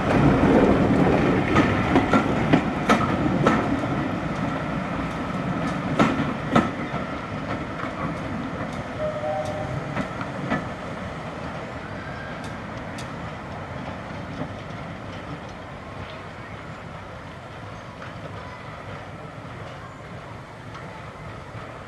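Train of passenger coaches running past and away, wheels clicking over the rail joints, the sound fading steadily as it recedes.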